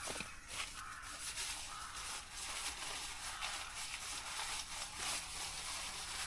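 Rustling and crinkling of material being handled: a dense run of small scratchy rustles.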